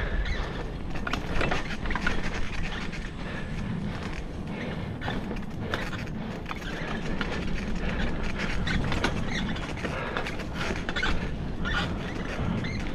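Bicycle ridden over a bumpy forest trail: a steady tyre-and-ground rumble with frequent rattling clicks from the bike as it goes over the ground.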